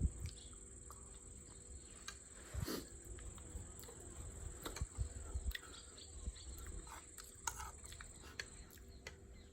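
A person eating close to the microphone: faint chewing and slurping with scattered small clicks, a slightly louder one about a third of the way in.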